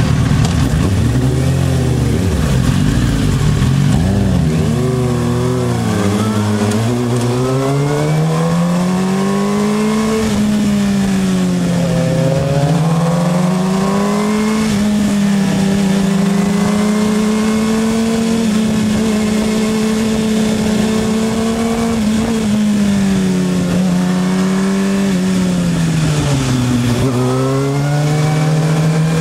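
Motorcycle engine running without a break, its pitch climbing and falling as the throttle is opened and eased off, with a long steady stretch in the middle and a drop in pitch near the end.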